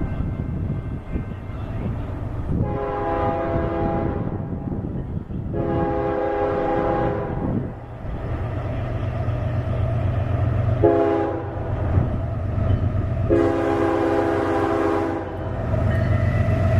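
Locomotive air horn sounding long, long, short, long, the standard grade-crossing warning signal, over the steady low rumble of the passing train.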